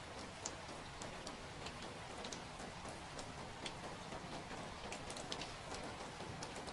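Steady rain: an even hiss with scattered sharp drops and drips tapping on a surface.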